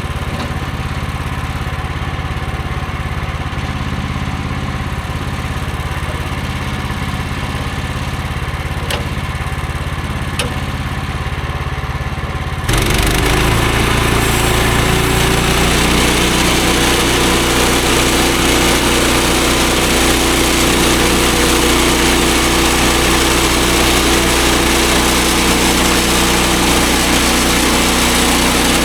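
Bandsaw sawmill's gasoline engine idling steadily, then about halfway through it suddenly steps up to a louder, fuller run with a broad rushing noise as the throttle is opened and the band blade is driven. It runs on steadily at that speed.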